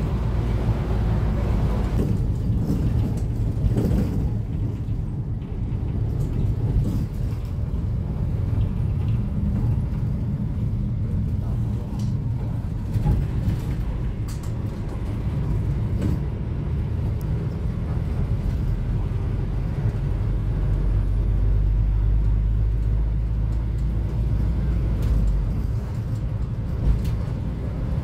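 Cummins ISF3.8 four-cylinder turbodiesel of a Daewoo Lestar minibus running, a steady low drone heard from inside the bus, growing heavier in the low end about two-thirds of the way through.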